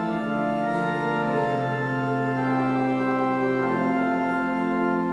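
Organ playing slow, sustained chords, the harmony changing every second or so.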